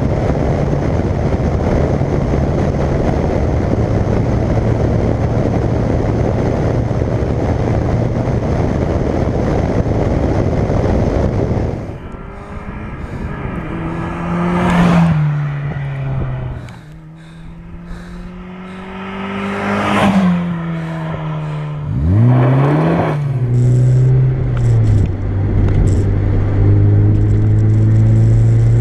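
Mazda MX-5's 1.8-litre four-cylinder engine with an aftermarket exhaust, driving with a steady engine note under heavy road and wind noise. After about twelve seconds the sound changes to a clearer exhaust note that rises and falls in pitch three times as the engine is revved or the car passes, then holds a steady note near the end.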